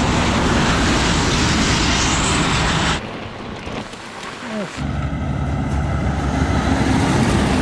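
Wind rushing over the microphone and tyre noise of a touring bicycle rolling on a gravel road. The sound drops away sharply about three seconds in and comes back loud a couple of seconds later.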